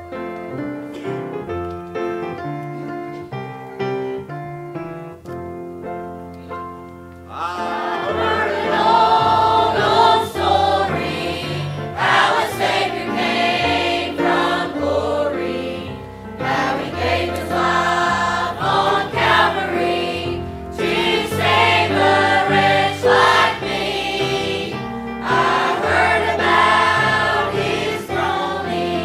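A choir or congregation singing a gospel hymn with instrumental accompaniment. An instrumental introduction leads in, and the voices enter about seven seconds in, much louder.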